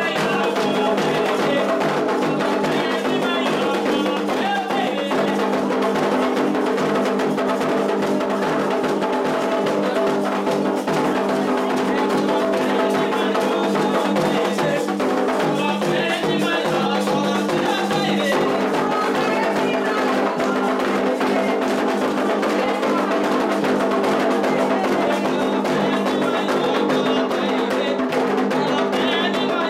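Candomblé ritual drumming: atabaque hand drums, led by the rum, play a fast, steady rhythm for the orixá's dance, with voices singing over them in stretches.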